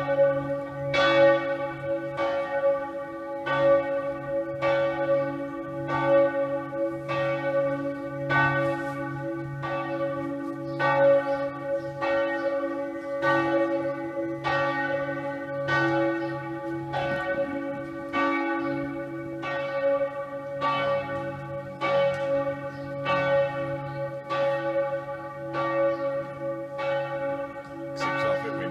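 Church bells ringing, struck a little faster than once a second, with the bells' hum carrying on between strikes.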